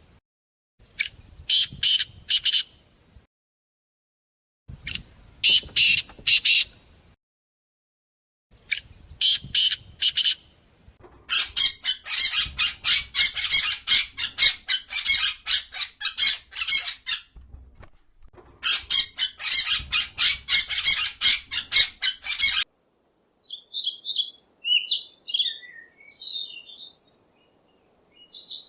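Bird squawking: harsh calls in short runs of three to five, then two long, fast series of several calls a second. Near the end it gives way to softer, scattered chirps.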